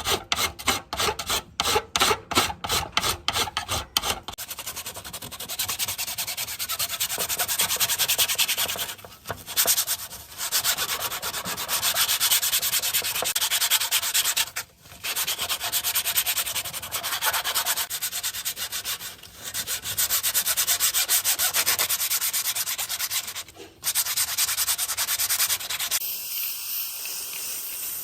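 Sanding: about four seconds of quick back-and-forth strokes, several a second, then long stretches of steady scraping broken by short pauses. Near the end it gives way to a steady hiss.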